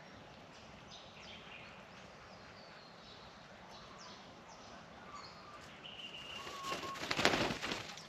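Birds giving scattered short chirps and calls, then about seven seconds in a loud burst of wing flapping lasting about a second.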